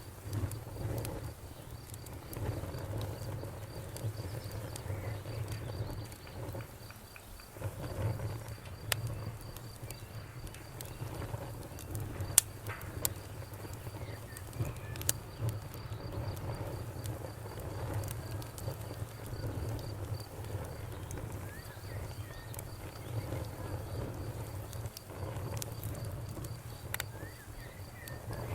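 A wood fire crackling, with scattered sharp pops over a low steady rumble. A cricket chirps in a fast, even pulse that stops briefly now and then.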